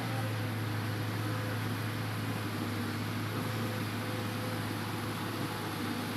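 Hitachi Zaxis 200 excavator's diesel engine running steadily with a low, even hum.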